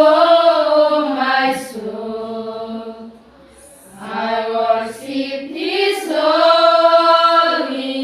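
A group of students singing unaccompanied in long held notes. Two phrases, with a short pause about three seconds in.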